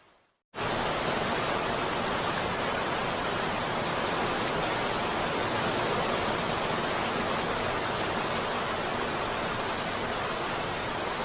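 Steady heavy rain, a dense even hiss. It fades to a moment of silence at the very start and cuts back in suddenly about half a second in.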